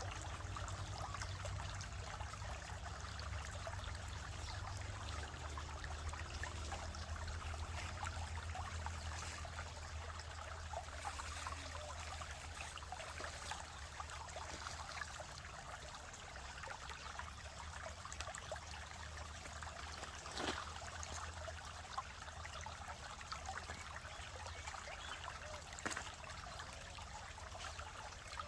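Water trickling and running steadily, with a low rumble underneath and a few brief clicks in the second half.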